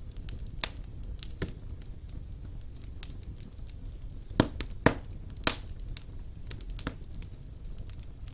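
Wood fire burning in a fireplace: a steady low rumble of flames with scattered crackles and sharp pops, the three loudest coming close together about halfway through.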